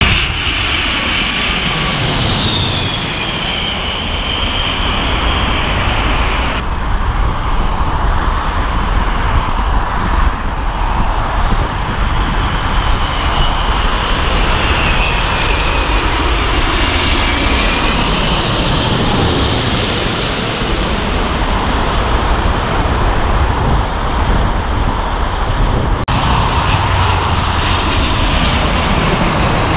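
Jet airliners on final approach passing low overhead: a heavy engine rumble with a high whine that falls in pitch as each aircraft goes by. The sound changes abruptly twice, where separate passes are joined.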